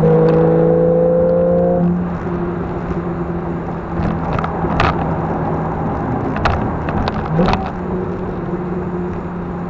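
Porsche 991.1 911 GTS flat-six heard from inside the cabin, with the sport exhaust in Sport Mode: it pulls up through the revs for about two seconds, then settles to a steady cruise. A few sharp knocks cut through, the loudest about five seconds in.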